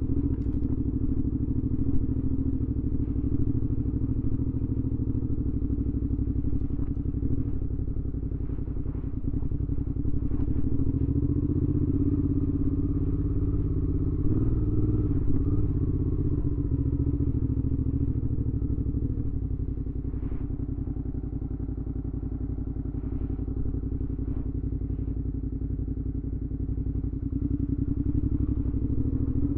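2019 Suzuki V-Strom 650's 645 cc V-twin engine running under way through a Delkevic aftermarket exhaust, a steady exhaust note. The pitch wavers about halfway through, then the note eases off for a while and picks up again near the end.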